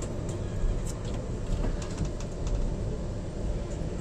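Passenger train running along the track, heard from aboard: a steady low rumble of wheels on rails, with scattered light clicks and rattles.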